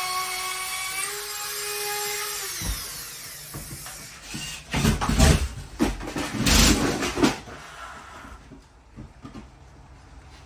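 A high-speed power tool cutting drywall runs with a steady whine, rises slightly in pitch about a second in, then winds down and stops. A few seconds later come several loud knocks and thuds.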